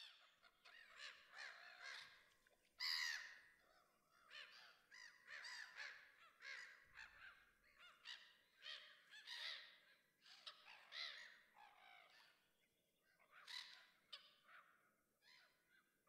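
Birds calling in a busy, overlapping series of short harsh calls, one or two a second, faint overall, with one louder call about three seconds in.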